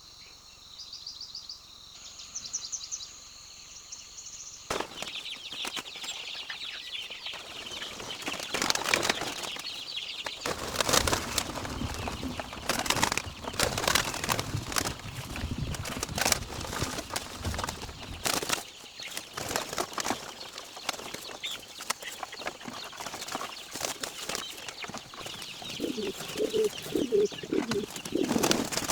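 Pigeons flapping their wings and scuffling, a dense fluttering clatter that starts about five seconds in. Before it there are a few high bird chirps, and near the end a short run of low bird calls.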